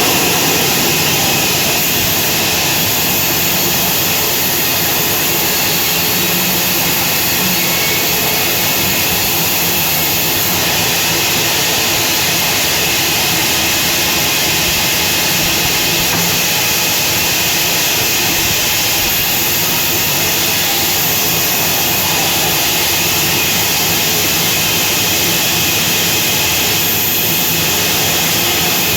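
Sawmill saw running steadily while cutting wood, a loud unbroken mechanical noise with a strong high hiss.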